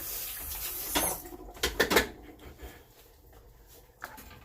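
A steady hiss for about the first second, then several knocks and clatters of kitchen utensils, then quieter handling sounds.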